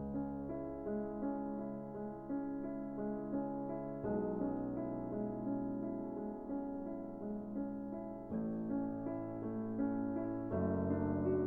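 Background piano music: soft sustained chords with a melody of repeated notes, changing chord about every four seconds.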